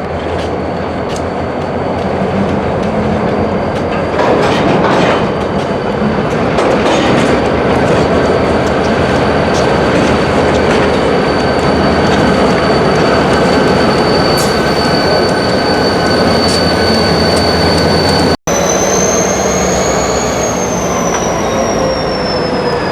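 Freight train rolling past on yard track with a steady loud rumble of wheels on rail. Wheel flange squeal comes in as a high steady tone from about halfway. After a momentary break, the squeal rises and then falls in pitch near the end.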